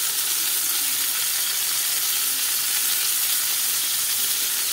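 Beef patty and sliced mushrooms sizzling steadily in hot olive oil in a frying pan.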